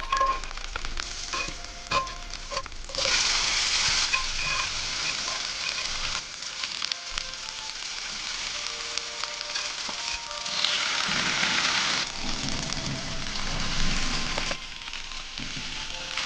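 Food frying and sizzling in a pan over a campfire, with scattered crackles and clicks, its hiss swelling and easing every few seconds.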